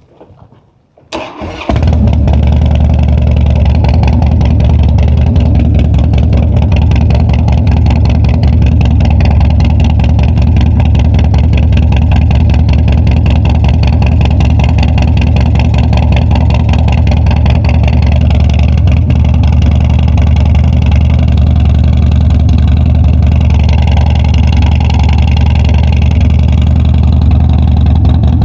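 Harley-Davidson Dyna's air-cooled V-twin engine cranked on the starter and catching about two seconds in, then running steadily at an even, unchanging speed.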